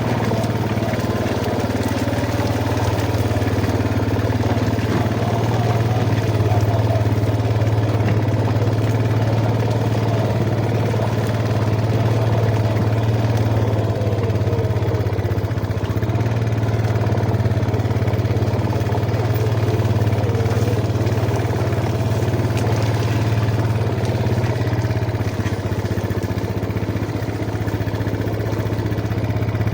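Yamaha Jupiter MX motorcycle's single-cylinder four-stroke engine running steadily at an even pitch.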